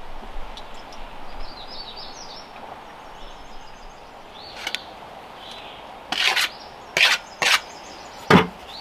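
Small songbirds chirping, then three short scrapes and a single knock near the end, as from hand work with tools or stone.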